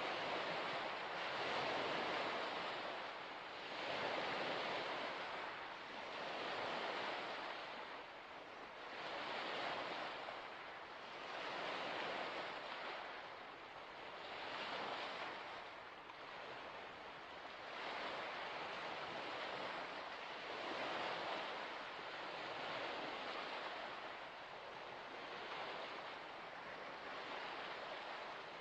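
Small waves washing onto a shore: a rushing noise that swells and fades every two to three seconds.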